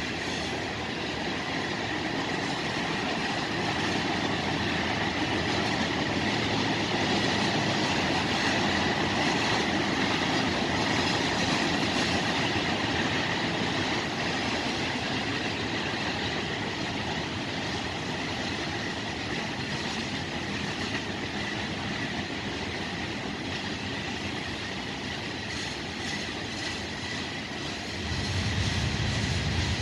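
A freight train's cars rolling past: a steady rumble and rattle of steel wheels on the rails. A deeper rumble joins near the end.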